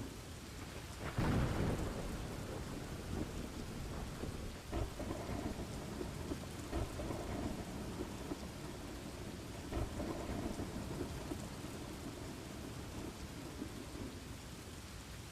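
Thunderstorm ambience: steady rain with rolling thunder, a sharp clap about a second in and further rumbles through the rest.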